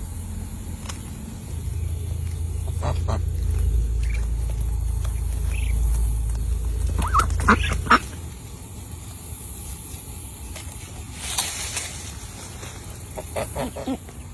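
Short calls of waterfowl: a few around seven to eight seconds in and a quick run of calls near the end. Under them is a low rumble that swells and then cuts off suddenly about eight seconds in.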